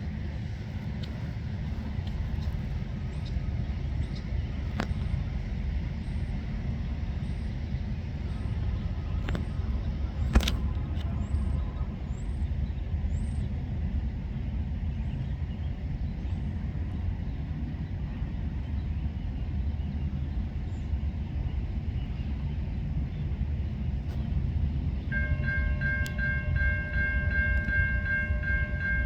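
Low, steady rumble of an approaching freight train led by a CN GE ES44AC diesel locomotive, with one sharp click about a third of the way in. Near the end the locomotive's multi-chime air horn starts sounding a steady chord.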